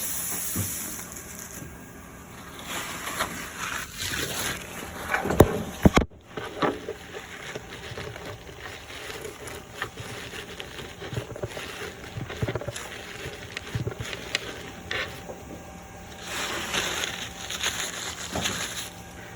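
Hands working on the pneumatic piston assembly of an old hot foil stamping machine: scattered knocks and clicks of metal parts, with two stretches of rubbing and rustling.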